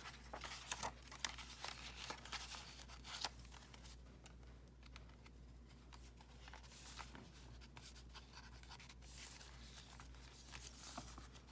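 Faint rustling and soft taps of paper pages and a fold-out flap being handled and turned in a handmade paper journal, a few louder taps near the start and around three seconds in.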